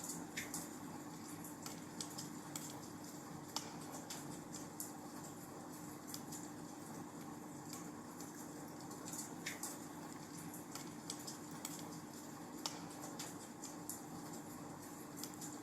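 Wood fire burning in a fireplace, crackling with scattered, irregular sharp pops over a steady hiss and a faint low hum.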